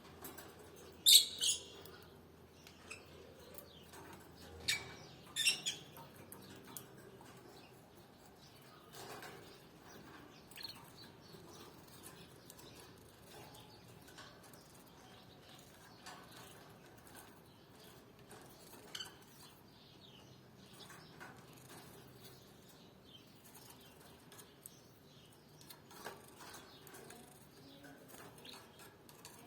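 Caged canaries: a few short, sharp calls or flutters about a second in and again around five seconds, then faint scattered clicks and rustles of the birds moving about.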